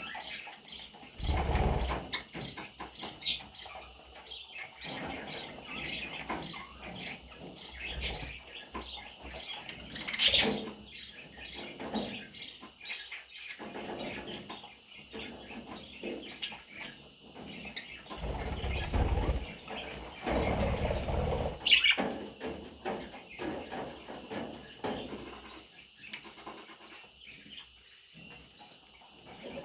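Budgerigar chicks chirping with many short, repeated cheeps. A few louder bursts of movement break in, about a second and a half in and again from about 18 to 21 seconds.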